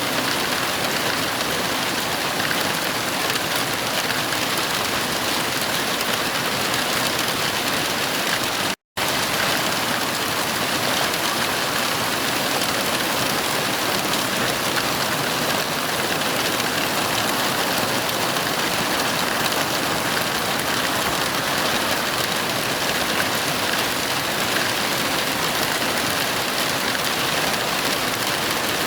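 Heavy rain falling in a steady, dense hiss, with no thunder. It cuts out completely for a split second about nine seconds in, then carries on unchanged.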